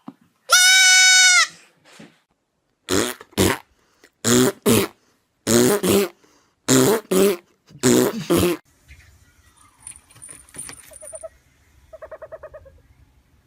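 A goat's loud, held bleat about half a second in, followed by five pairs of short, harsh calls and, near the end, a quieter quavering bleat.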